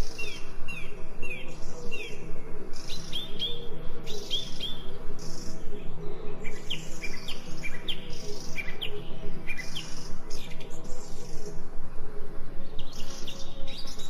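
Small songbirds chirping in quick series of short, falling chirps, over a soft steady musical drone.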